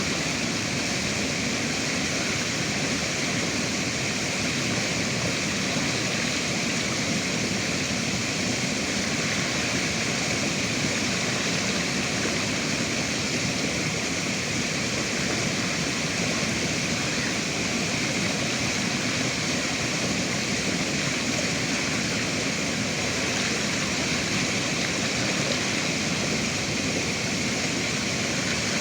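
Steady rushing of river water, an unbroken even wash with no change in level.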